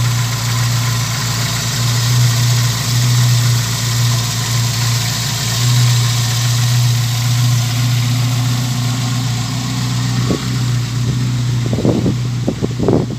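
Engine of a 1976 Chevrolet Firenza idling steadily, with an even low hum. A few short knocks come near the end.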